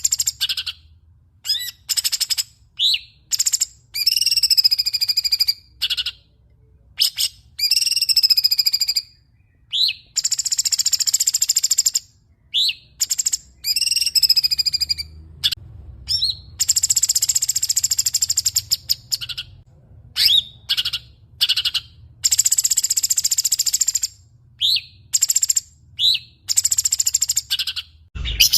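A songbird singing a long, varied song: short, sharp upswept chirps alternating with longer, wavering high trills lasting a second or two, with brief pauses between phrases.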